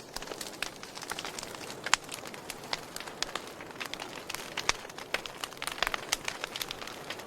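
Campfire burning: wood crackling and popping in irregular sharp snaps over a steady low hiss.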